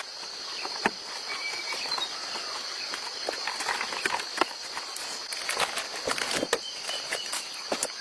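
Scattered sharp clicks and light knocks of metal engine parts and hand tools being handled, over a steady high-pitched insect chorus.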